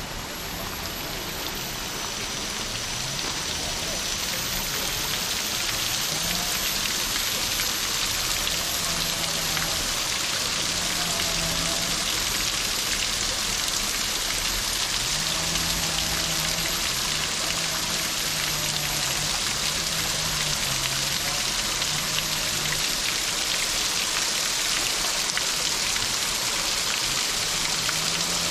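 Steady hiss of falling water, like heavy rain, that swells over the first few seconds and then holds. Faint low held tones step up and down beneath it.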